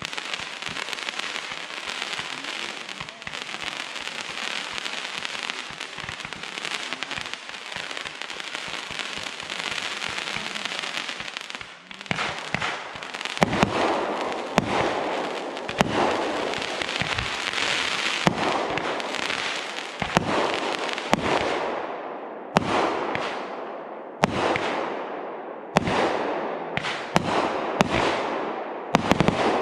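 Fireworks display: about twelve seconds of dense, continuous crackling, then a run of loud shell bursts, one bang after another, which near the end come as separate bangs with short gaps between them.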